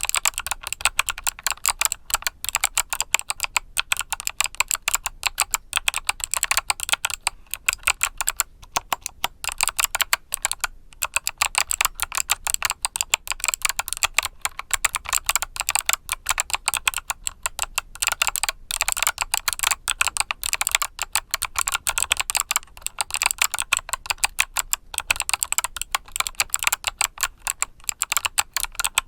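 Mechanical keyboard with Kailh Box Summer switches being typed on quickly and continuously, a dense run of sharp key clicks broken by a few short pauses.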